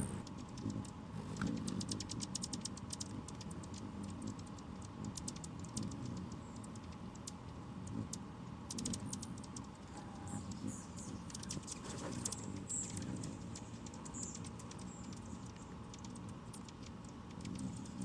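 Hummingbirds calling: rapid trains of dry, ticking clicks, densest early and again about nine seconds in, with short high chips later on, over a low, uneven rumble.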